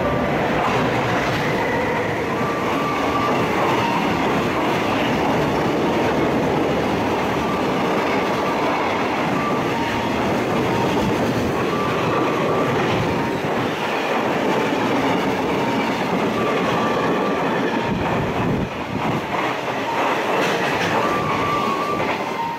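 Container freight train running past on the line, a steady, loud rumble of wheels with clickety-clack over the rail joints and faint intermittent wheel squeal, easing slightly near the end.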